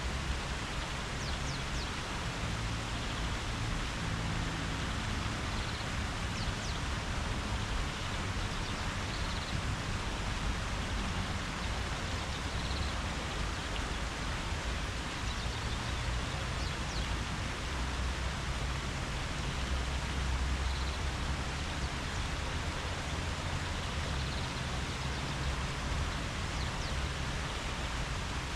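Steady rustling of leaves in a breeze, with a low rumble underneath and a few faint, short high chirps now and then.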